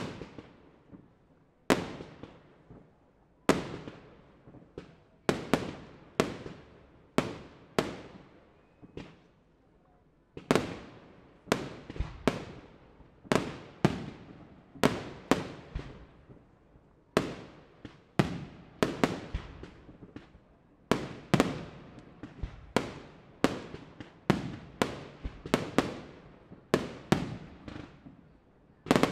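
Aerial firework shells bursting one after another in a steady barrage: a sharp bang about every second, each trailing off in an echo, with a short lull about a third of the way in.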